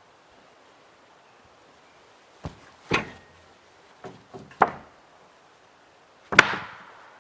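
A series of sharp blows striking wood: two about 2.5 s in, a quick run of three around 4 to 4.5 s, and a single loudest blow near the end with a short ring.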